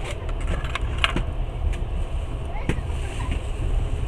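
Steady low rumble of a moving passenger train heard from inside the carriage, with scattered sharp clicks and rattling knocks.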